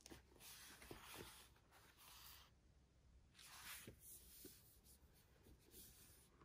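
Near silence with faint scratching strokes: a long one starting about half a second in, another at about three and a half seconds, and a few light ticks between.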